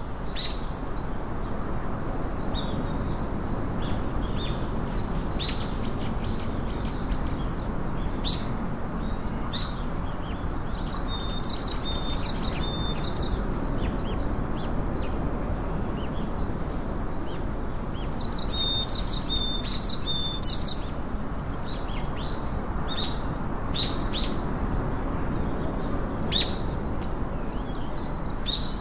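Small birds chirping throughout over a steady background rush. Short, sharp high chirps come scattered through, and a held high note with rapid chirps sounds twice, once a little under halfway through and again about two-thirds of the way in.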